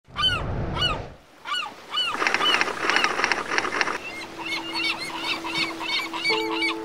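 Bird calls repeating, each a short cry that rises and falls in pitch, with a thicker flurry of calls in the middle; held music notes come in about four seconds in.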